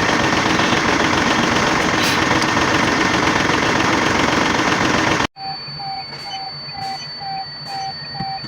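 Nissan GE13 V8 diesel truck engine running steadily. About five seconds in the sound cuts off abruptly, and a steady electronic beeping follows at about two beeps a second, with a faint high steady whine.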